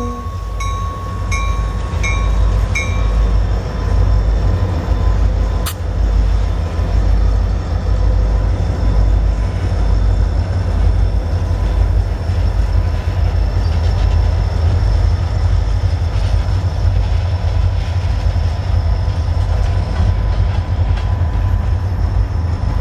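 Pan Am Railways EMD GP40-2 diesel locomotives rolling slowly past, a loud steady rumble with the train cars following behind. A bell rings about twice a second for the first three seconds and then stops.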